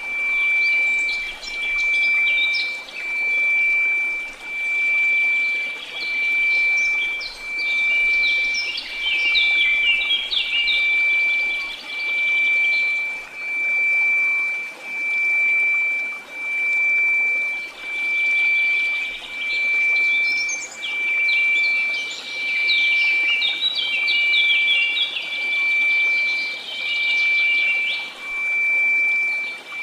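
A steady 2334 Hz sine tone swelling and fading about every two seconds over a soft hiss of noise, with birds chirping quickly through most of it, pausing for a few seconds in the middle.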